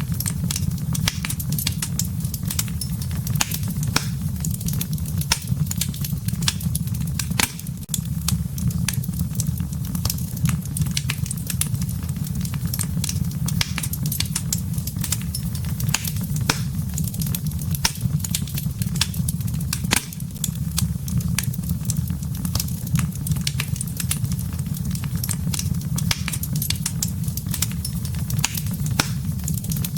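Wood fire burning, with dense, irregular crackles and pops from the burning wood over a steady low rumble.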